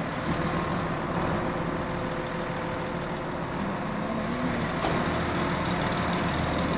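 Heavy diesel truck engine running steadily at a concrete pour, the sound of a concrete pump truck and mixer truck at work.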